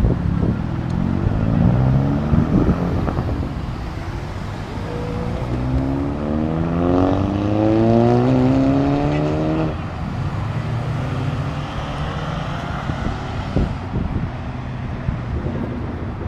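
Car engine and exhaust accelerating hard, pitch climbing briefly at first, then a longer rising rev that cuts off suddenly about ten seconds in as the throttle is lifted, followed by steadier engine noise.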